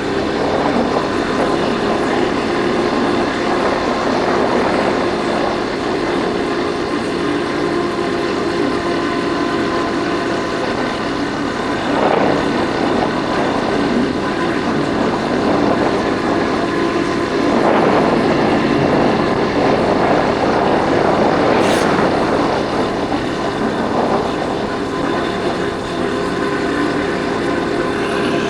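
Yamaha Factor 150's single-cylinder four-stroke engine running on the move, with wind and road noise on the microphone. The sound swells several times along the way, and there is a brief click a little past the two-thirds mark.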